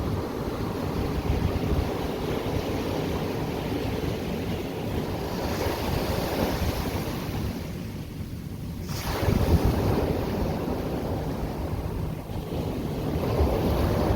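Ocean surf washing onto the shore, with wind buffeting the microphone. A wave breaks louder about nine seconds in.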